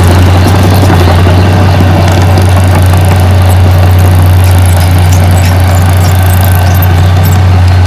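Diesel engine of heavy earthmoving machinery running at a steady, unchanging speed, close up and loud.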